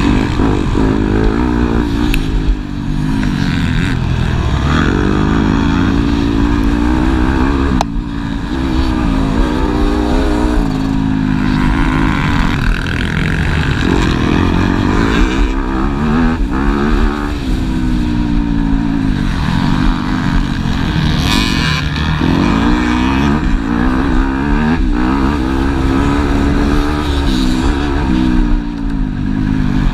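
Several motocross bikes racing, their engines revving up and down again and again as they shift gear and pass, with engines overlapping at times.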